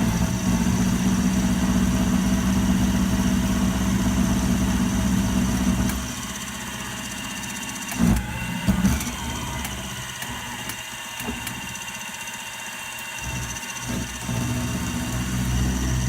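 Machine-tool electric motor running with a steady hum for about six seconds, then dropping quieter. A couple of sharp knocks come about eight seconds in, and the hum swells again near the end.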